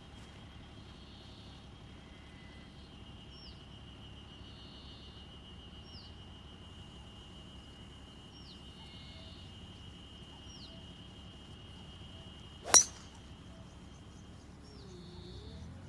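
A golf club strikes a ball once, a single sharp crack near the end, over birds calling in the background.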